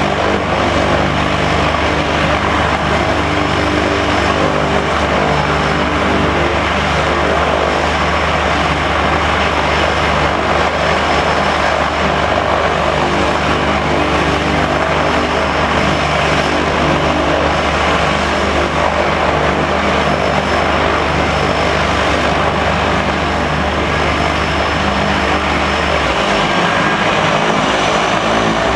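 Cessna 208B Super Cargomaster's single Pratt & Whitney PT6A turboprop running steadily: a loud propeller drone with a thin high turbine whine over it. The deepest part of the drone drops away near the end.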